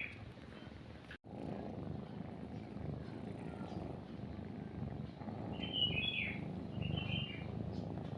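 A cat purring steadily after the sound cuts out briefly about a second in. Small birds chirp in short phrases at the start and twice near the end.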